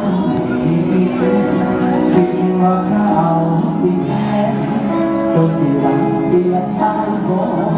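Live Thai luk thung / mor lam band playing an instrumental passage: sustained melody lines over a steady beat, with regular high percussion hits.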